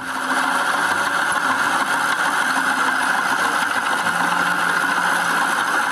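A steady machine-like hiss with a faint low hum under it, running without a break at an even level.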